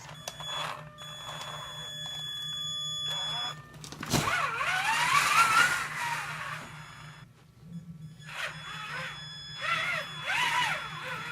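Traxxas Summit RC truck's electric motor and gear transmission whining, rising and falling in pitch with the throttle. There are two spells, about four seconds in and again near the end, and a sharp click just before the first.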